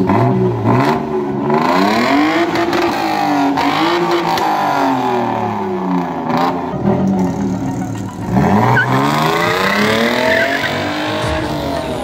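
Modified Datsun 120Y's engine revved hard through its exhaust while the car stands still. The pitch climbs and drops several times, with a long rise and fall about two seconds in and again about eight seconds in.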